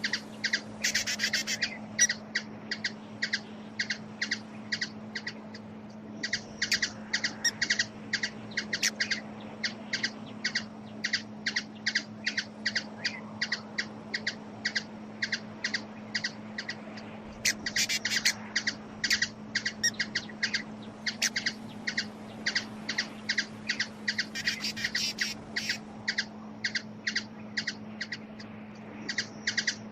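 Hummingbird giving rapid series of short, sharp chip calls, several a second, in denser bouts, over a steady low hum.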